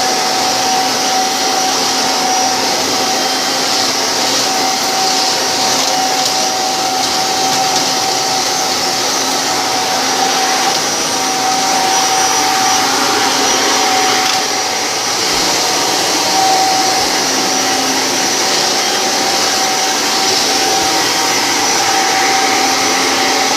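G5 vacuum cleaner in canister mode vacuuming a hard floor: a steady, loud motor whine with a constant high tone.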